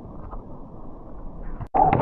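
Muffled water noise heard through an underwater camera housing during snorkeling, a dull hiss with no high sounds. Near the end it cuts off abruptly and gives way to louder bubbling and clicking water.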